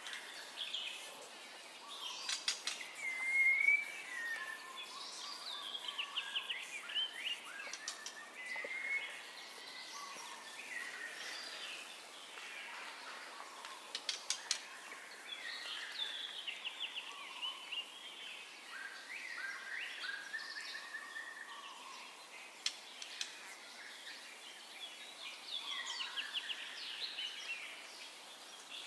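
White-rumped shama (murai batu) singing a varied song of whistled phrases, trills and rapid note runs, with a few sharp clicks, over a faint steady hiss.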